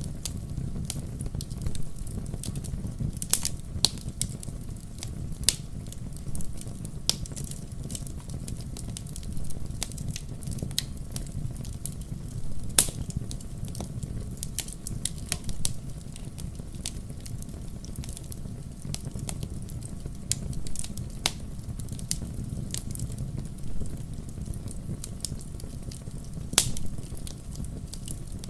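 Wood campfire crackling, with irregular sharp pops and snaps over a steady low rumble of the burning fire; one pop about halfway through is the loudest.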